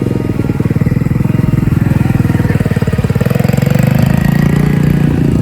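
Mini bike's small engine running, with a rapid, even firing beat.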